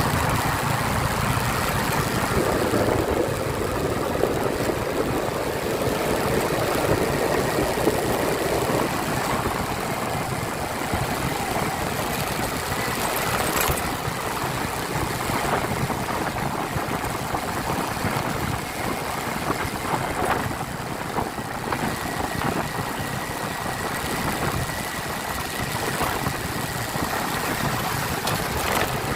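Motorcycle engine running steadily while riding, mixed with a dense rush of road and wind noise.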